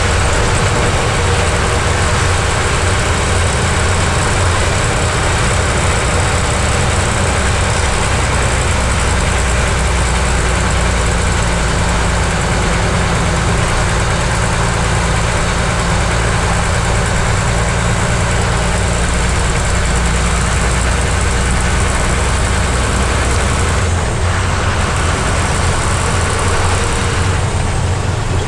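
Heavy truck's diesel engine running steadily as the truck is driven on a hairpin-bend ghat road, with a deep low hum. Its note changes once, near the end.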